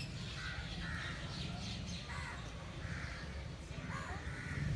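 A bird calling several times, short separate calls roughly once a second, over a steady low rumble.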